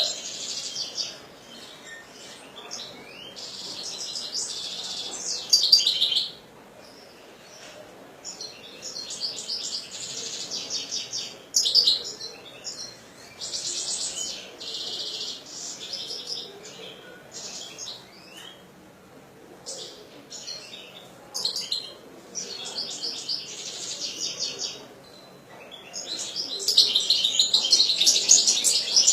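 European goldfinch singing: bursts of rapid, high twittering song a few seconds long, broken by short pauses.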